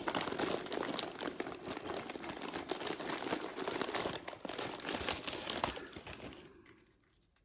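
Crinkly plastic snack bag of Doritos 3D Crunch Spicy Ranch being rummaged through by hand, a steady crackling with many small clicks as chips are fished out, dying away near the end.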